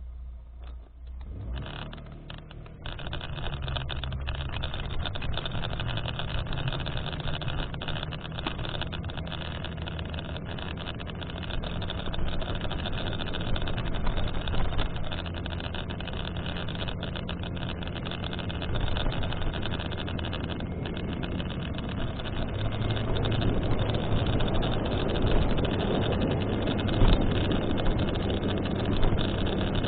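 Vehicle running, with a steady low engine hum and road noise, picked up by a device microphone with a muffled, narrow sound. It comes in about two seconds in and grows louder near the end. This is the recording the title calls an abnormal noise in the AD910's sound pickup.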